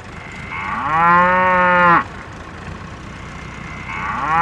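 Domestic cow mooing twice: one long moo that rises in pitch at the start and then holds steady, and a second moo starting near the end.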